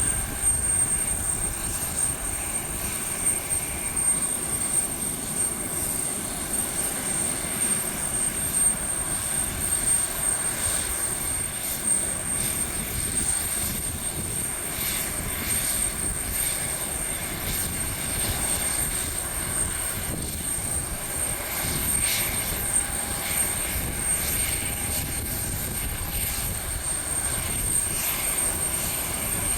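Jet airliner engines running steadily, a continuous rumble with a thin high-pitched whine held on one note.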